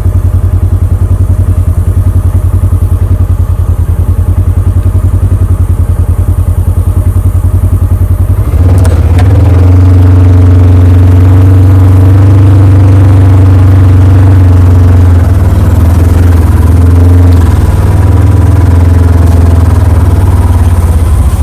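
A small vehicle engine running close to the microphone with a fast, pulsing rumble. About eight seconds in it gets louder and higher-pitched as it is driven harder, and holds there with a brief dip about two-thirds of the way through.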